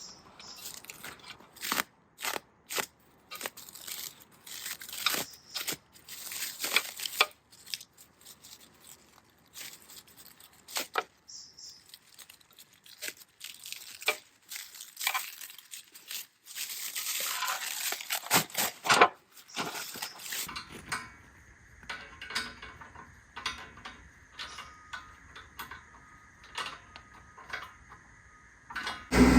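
Irregular metallic clinks, knocks and scrapes of metal parts being handled, with quiet gaps between them. About two-thirds of the way through a faint steady hum comes in under them.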